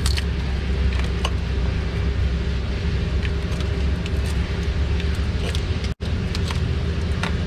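Steady low mechanical hum from running machinery, with scattered light clicks and taps of parts and tools being handled. The sound drops out abruptly for an instant about six seconds in.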